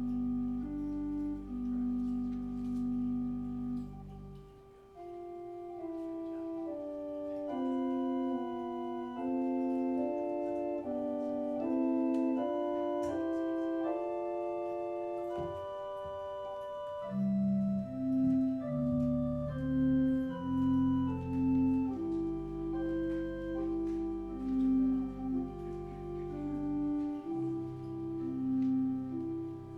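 Church organ playing slow sustained chords under a moving melody line. The deep pedal bass drops out about four seconds in and comes back around seventeen seconds, with regular swells in loudness from there on.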